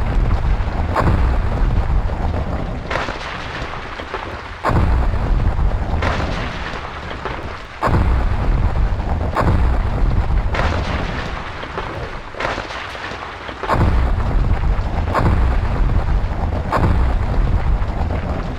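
Volcanic eruption: a string of sudden booming blasts every one to three seconds, each trailing off into deep rumbling. Four of the blasts are heavier than the rest.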